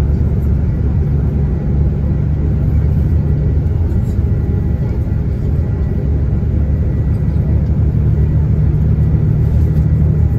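Coach's diesel engine running under way with a steady low drone and road noise, heard from inside the passenger cabin; the engine note grows a little stronger in the second half.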